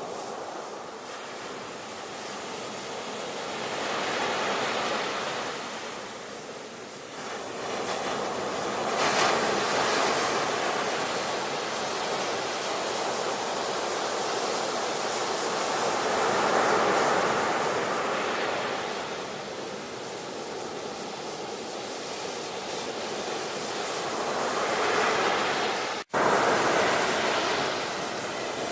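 Ocean surf: waves breaking and washing in, swelling and ebbing every several seconds. Near the end the sound cuts out for an instant and comes straight back louder.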